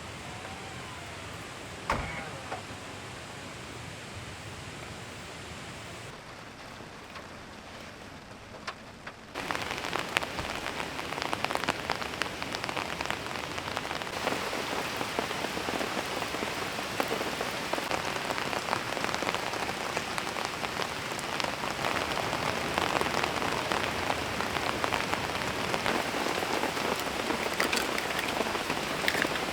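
Steady rain falling and pattering on a surface, with many small drop ticks. It suddenly grows louder and denser about nine seconds in, and there is a single knock about two seconds in.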